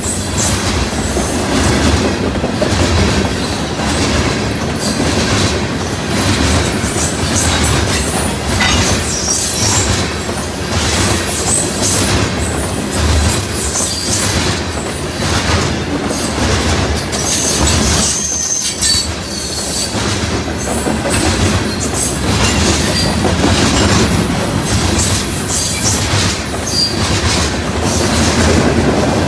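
Loaded grain hopper cars of a long freight train rolling past, wheels clicking steadily over rail joints. A high-pitched wheel squeal comes and goes throughout.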